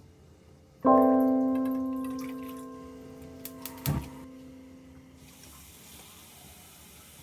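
A single sudden ringing strike about a second in, its several tones fading away slowly over about four seconds, followed by a short knock and then a faint hiss.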